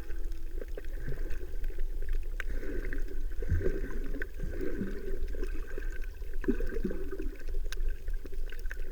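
Underwater ambience heard through a diver's camera housing: a steady low rumble with gurgling bubbles and scattered sharp clicks.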